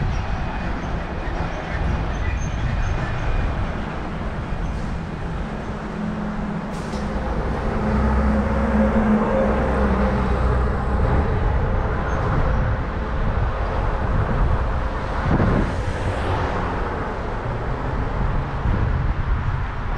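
Street traffic and rushing noise heard from a moving bicycle. A heavy vehicle's low engine note swells and passes about a third of the way through, and another vehicle goes by a few seconds later.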